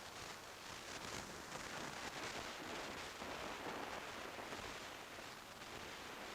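Faint, steady rushing wind noise on a motorcycle-mounted camera's microphone, swelling a little in the middle, with no clear engine tone.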